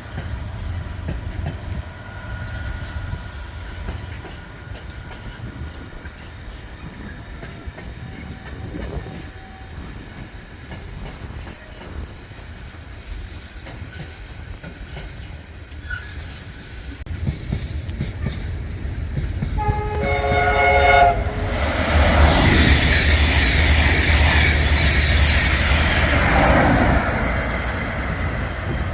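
InterCity 225 express (Class 91 electric locomotive with Mk4 coaches) sounds its two-tone horn about twenty seconds in, then passes at speed: a loud rush of wheels on rail and air lasting about five seconds before fading.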